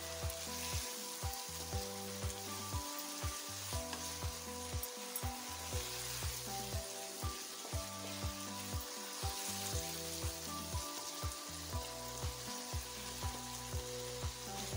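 Mince, peas and potatoes frying in ghee in a pan and sizzling as they are stirred, under background music with a steady beat.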